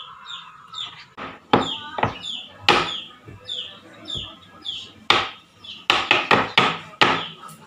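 Kitchen knife chopping on a wooden cutting board: sharp irregular knocks that come faster, several close together, near the end. Short falling chirps repeat throughout.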